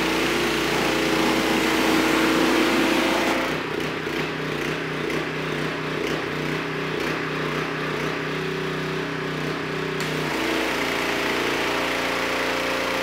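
A gas-engine pressure washer running steadily, its small engine's drone under a hiss of spraying water. The engine note shifts about three and a half seconds in and again near the end.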